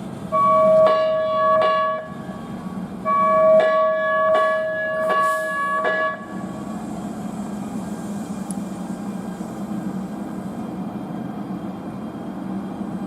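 Siemens P2000 light-rail train sounding two long warning tones with sharp strikes over them as it departs, then running off with a steady low hum from about six seconds in.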